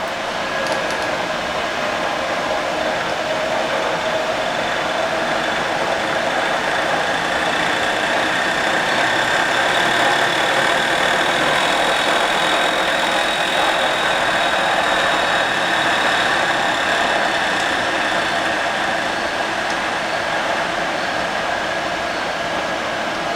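Tree vertical knee mill running under power, its spindle motor and drive making a steady mechanical whine over a running hum.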